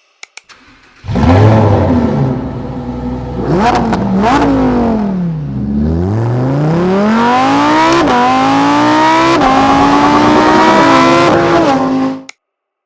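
Lamborghini Huracán EVO's 5.2-litre V10 coming in loudly about a second in, blipped twice, dropping in pitch, then pulling hard with rising revs through two quick upshifts before cutting off abruptly near the end.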